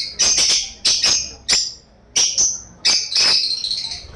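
A bird giving harsh, rasping calls in a rapid series of short bursts, with a brief lull midway and a longer call near the end.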